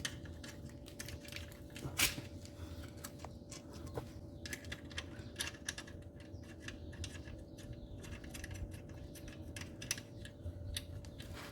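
Irregular light metallic clicks and taps from hand work on the front suspension, fitting a new anti-roll bar bushing and its clamp, with one louder knock about two seconds in, over a faint steady hum.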